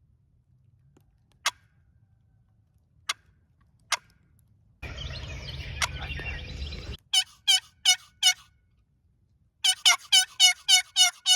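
Turkey yelps: a series of four short, falling yelps about seven seconds in, then a faster run of seven near the end. A rough, noisy stretch of about two seconds comes just before them, with a few sharp single clicks earlier.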